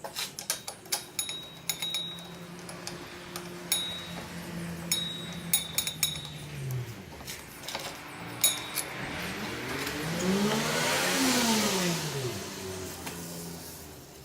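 Scattered metallic clicks and clinks, then a motor or engine sound whose pitch rises and falls again over about four seconds, with a hiss.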